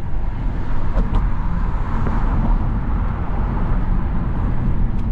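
Car on the move: a steady, loud low rumble of road and engine noise, with a faint click about a second in and another near the end.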